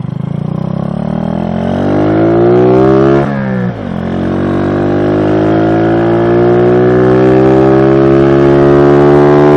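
SSR Razkull 125 pit bike's single-cylinder engine pulling hard under full-throttle acceleration, its pitch climbing. Just after three seconds in, the revs drop sharply on an upshift. Then they climb again through a long pull, with another shift right at the end.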